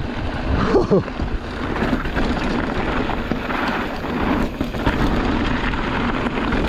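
Mountain bike riding over a dirt forest trail: knobby tyres rolling over dirt and rocks and the bike rattling, with wind buffeting the microphone.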